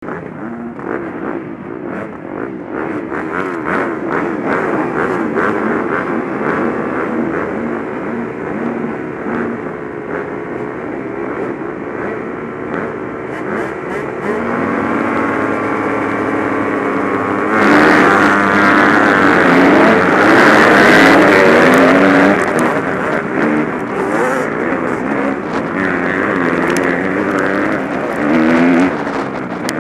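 Several motocross bikes' engines running and revving up and down together, pitch rising and falling with the throttle; the sound gets loudest for a few seconds just past the middle, as a bike comes close.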